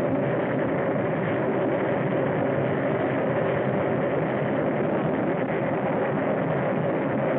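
Steady engine drone that runs on without a break or change, dense with many held pitches. It sounds dull and thin, as on an old, narrow-band film soundtrack.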